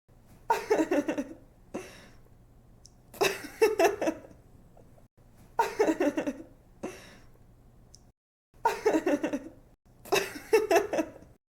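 A young woman laughing in five short bouts of quick giggles, each bout under a second long with a brief intake of breath after some of them.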